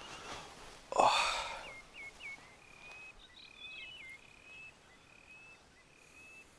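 A bird calling in a series of short high whistled notes, some ending with a quick downward flick, repeating every half second or so. About a second in, a sudden loud rush of noise fades within half a second.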